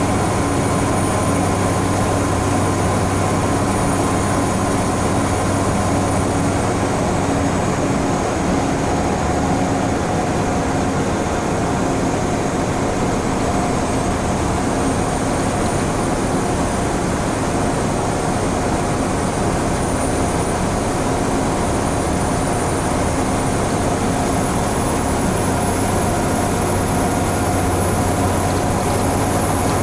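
Scania N94UB Omnicity single-decker bus running steadily at speed, heard from inside the saloon: a constant low engine drone with a thin high whine above it that dips a few seconds in and then slowly climbs again.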